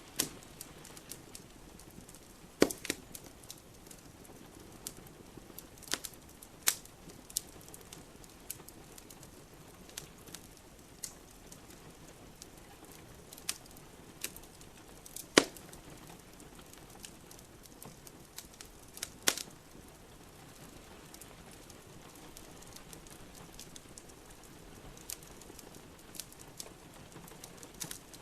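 Wood fire crackling in a fireplace: irregular sharp pops and snaps, a few much louder than the rest, over a soft steady hiss of rain.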